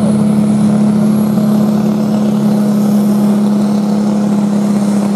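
Turbocharged diesel tractor engine running flat out under heavy load as it drags a weighted pulling sledge, a steady loud drone with a faint high whine climbing slowly as the turbo boost builds.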